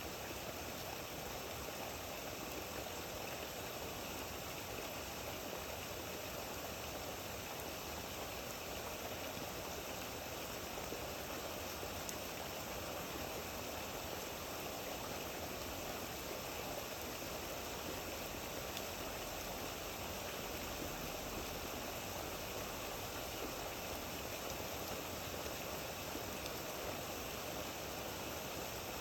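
Steady rain falling, an even wash of water noise with no pauses or separate drops standing out.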